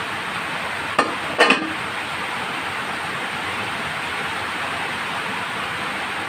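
A utensil clinks sharply against the cooking pan, twice in quick succession about a second in, over a steady hiss.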